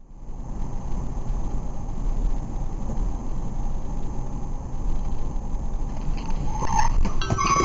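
A moving car's engine and road noise, steady and growing louder near the end, where a brief squeal and a few knocks start.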